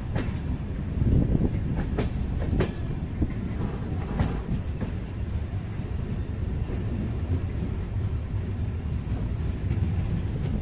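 Passenger train coaches running on the track, heard from an open coach doorway: a steady low rumble of wheels on rail, with a few sharp clicks in the first half as the wheels cross the track joints.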